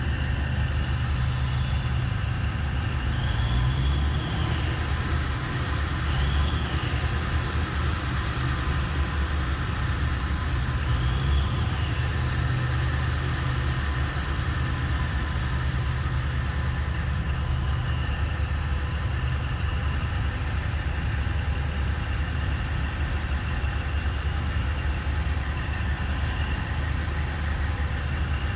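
Komatsu 730E diesel-electric haul truck's engine idling steadily with a deep low rumble. A high whine sits above it and swells up in pitch briefly a few times.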